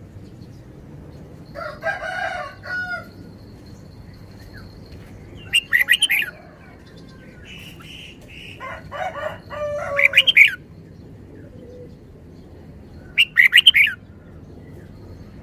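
Red-whiskered bulbul singing short, bright, quickly warbled phrases, three or four times with pauses between. Between them come two longer, lower, layered calls from another bird.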